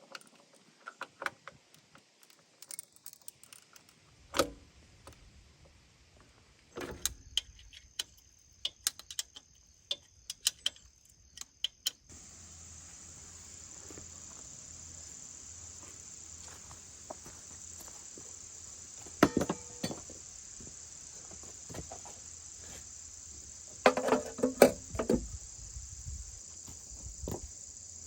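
A steady, high insect chirring starts about twelve seconds in. Scattered sharp clicks and knocks fall across the whole stretch, with a loud cluster near the end.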